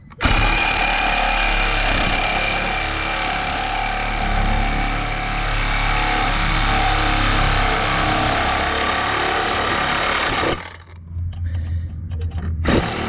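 Handheld power saw running steadily as it cuts through a copper water pipe, stopping abruptly about ten seconds in.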